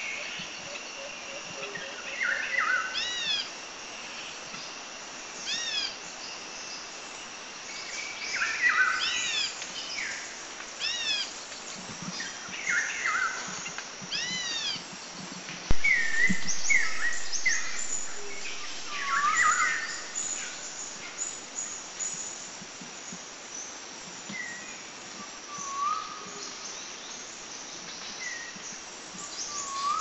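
Several wild birds singing and chirping over a steady background hiss, one of them repeating a short arched note every few seconds. A single sharp click about sixteen seconds in.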